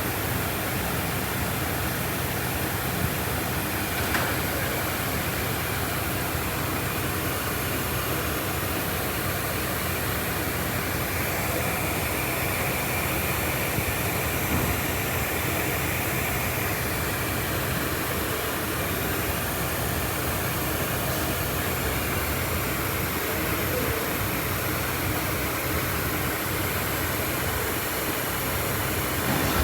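Mitsubishi L200 diesel engine running steadily.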